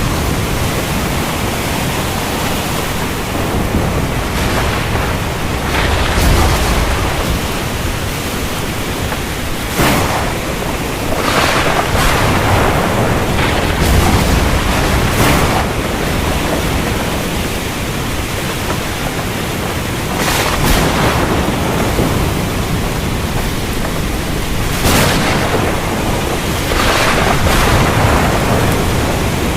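Heavy rain falling steadily in a dense hiss, with distant thunder rumbling low at a few points and short gusty swells of rain or wind rising and falling every few seconds.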